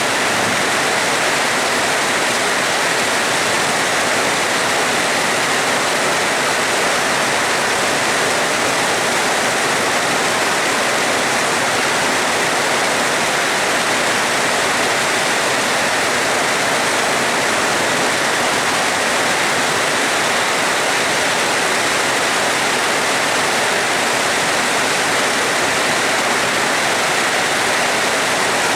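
Steady heavy rain, an even, unbroken hiss with no thunder.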